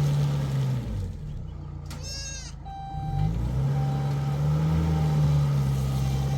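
A vehicle engine running: its pitch drops about a second in and rises again around three seconds in. A goat bleats briefly about two seconds in, and a short beep repeats from about three seconds on.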